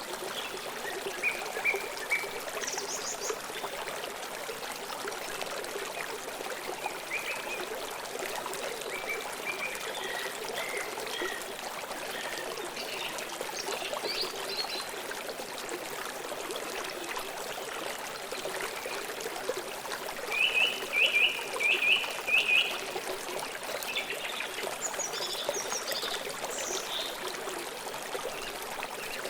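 River water flowing and trickling steadily, with birds calling now and then over it, including a quick series of about five chirps a little past two-thirds of the way through.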